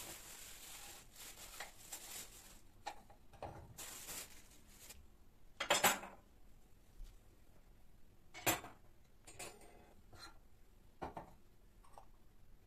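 Scattered light knocks and clinks of hard objects being handled, with a soft rustle at the start. Two louder knocks come about six and eight and a half seconds in.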